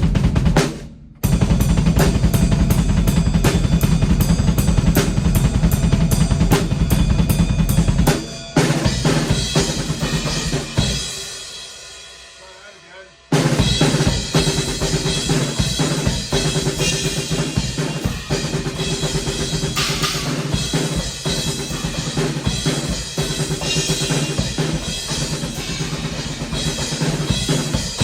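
Drum kit played: a Tama 14x6.5" Bubinga snare with a Tama Rockstar kit and Sabian AA/AAX cymbals. A fast, dense run of strokes with heavy low drums gives way to ringing cymbals that die away over several seconds. The beat then starts again suddenly with busy playing.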